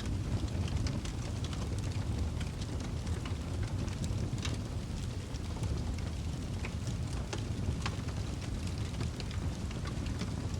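Wood fire crackling in a fireplace: a steady low rumble of flame with frequent sharp pops and snaps scattered irregularly throughout.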